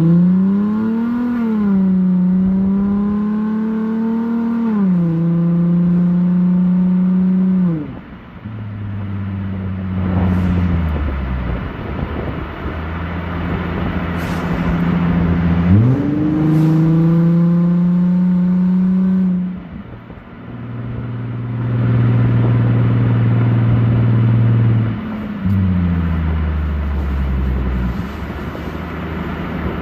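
Straight-piped exhaust of an Infiniti G35's 3.5-litre VQ35HR V6, with muffler and resonators deleted, pulling through automatic upshifts: the note climbs, drops at each gear change, eases off twice and climbs again.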